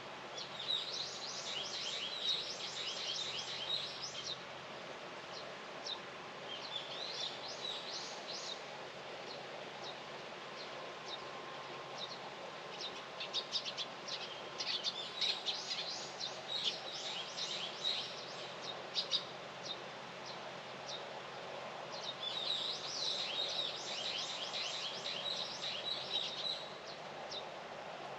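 Small birds singing in bouts of rapid, high chirping notes, four bouts with short pauses between them, over a steady outdoor background hum.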